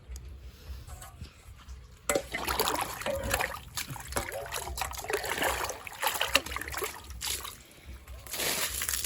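Water splashing and sloshing in uneven bursts, starting suddenly about two seconds in, with another burst near the end, as a pig pen is washed out.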